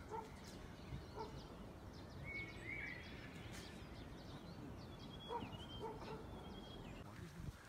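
Faint outdoor ambience with a few short bird calls, short rising chirps a few seconds apart.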